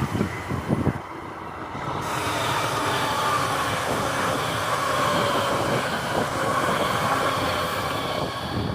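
Electric passenger train running past: a steady rumble of wheels on the rails with a mix of whining motor tones. Wind thumps on the microphone in the first second.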